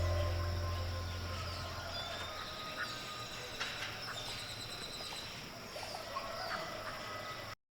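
The last of the background music fades out over the first two seconds, leaving birds chirping over faint outdoor ambience. The sound cuts off abruptly near the end.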